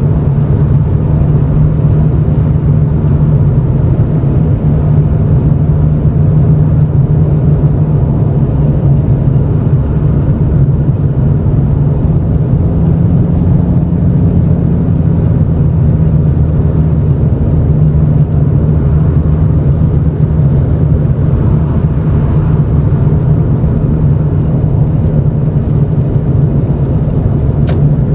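Exhaust note of a Toyota Chaser GX100's 2.0-litre straight-six through an aftermarket Reinhard cannonball muffler with a mid-pipe resonator and silencer insert, heard from inside the cabin while driving slowly: a steady low drone.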